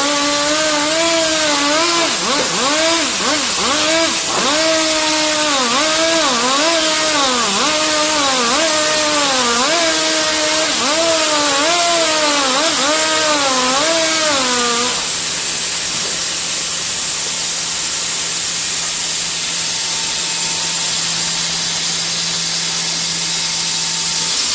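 Power saw cutting wood at high speed, its pitch dipping and recovering about once a second as it bites. It stops about fifteen seconds in, leaving a steady hiss.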